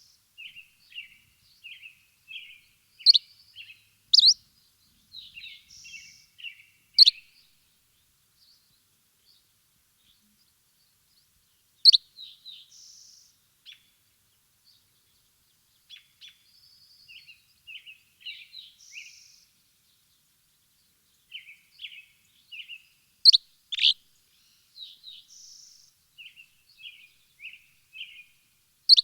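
Small birds chirping: quick runs of short, high chirps, broken by a handful of louder, sharp calls that sweep downward. There are several pauses of a few seconds with no calls.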